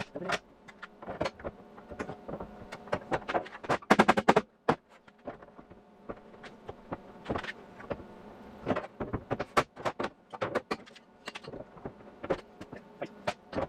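Welder laying plug welds in car sheet metal: an irregular crackle and buzz in short, uneven bursts.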